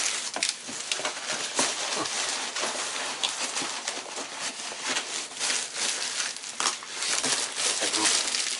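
Hands rummaging through loose foam packing peanuts in a cardboard box: a continuous rustling with many small clicks and crackles.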